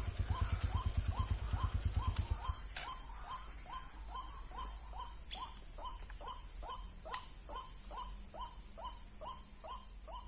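White-breasted waterhen (ruak-ruak) calls: a short falling note repeated evenly, about three times a second, with no break.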